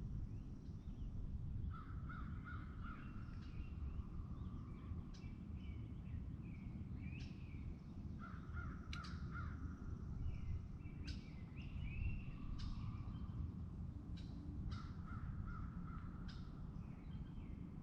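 Birds calling: three runs of four or five short repeated calls, about 2, 8 and 14 seconds in, with quick high chirps from other birds between them. A steady low rumble lies underneath throughout.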